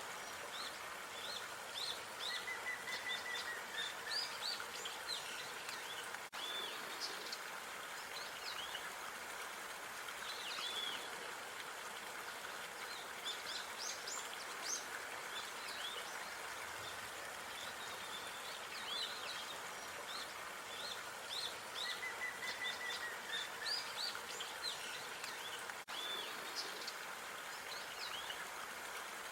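Small birds chirping and calling in many short high notes, with an occasional brief trill, over a steady background hiss of outdoor park ambience. The sound briefly drops out twice.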